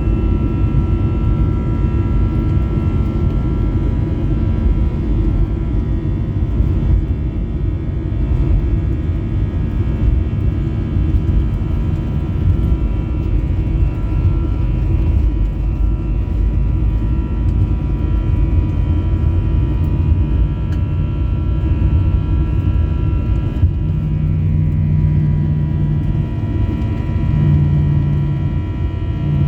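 Airbus A320's CFM56 jet engines running at high thrust, heard inside the cabin as a loud, steady rumble with faint steady whine tones above it. A low hum comes and goes near the end.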